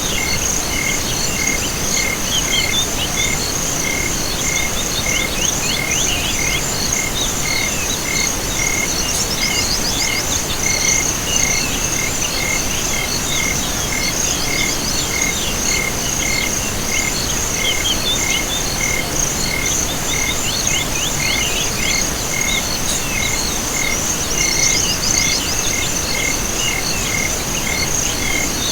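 Chorus of calling insects and frogs: a steady high trill, a regular chirp about twice a second, and now and then a short run of falling calls, over an even background hiss.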